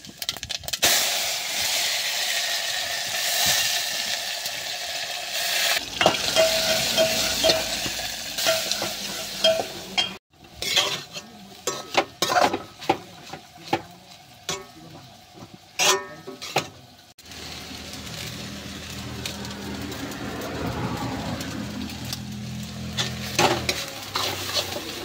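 Hot oil sizzling with spices in a steel pot for a tadka, then a metal ladle scraping and knocking against an iron kadai while stirring a frying soybean-and-cabbage momo filling, over steady sizzling. The clicks and knocks are thickest in the middle, and a steady sizzle returns near the end.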